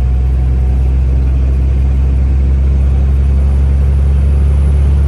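Semi truck's diesel engine droning steadily, heard from inside the cab while cruising along the road.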